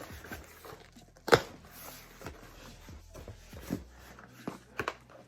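Cardboard box and packaging being handled and opened by hand: a few sharp knocks and crackles over light rustling, the loudest about a second and a half in.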